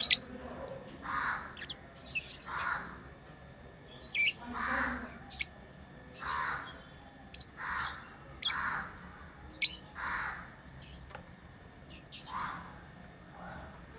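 Pet lovebirds chirping: harsh, raspy calls repeating about every second and a half, mixed with short, sharp high chirps.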